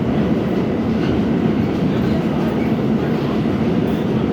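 R68 New York City subway car running along the track: a steady, loud rumble of wheels on rail, with a faint steady hum.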